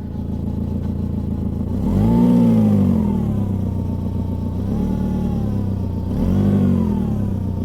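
Saab 9-5 2.0t turbocharged four-cylinder engine running and blipped twice, about two seconds in and again about six seconds in, the pitch rising and falling each time. The exhaust is loud through a major leak just after the catalytic converter.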